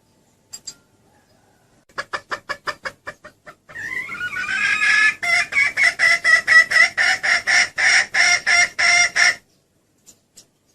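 Junglefowl hen calling: a quick run of short clucks, then a drawn-out call, then a fast string of repeated calls at about four a second that stops suddenly, used as a lure call to draw in a cock bird.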